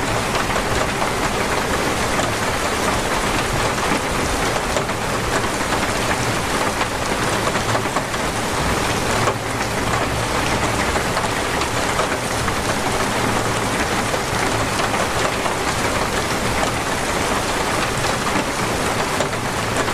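Heavy, steady rain pattering hard on surfaces, a dense unbroken hiss with countless drops.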